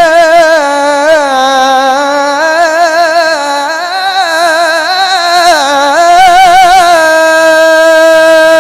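A Qur'an reciter's high, clear voice drawing out one syllable in a long melismatic run with quick wavering ornaments. About seven seconds in it settles onto a single long, steady held note.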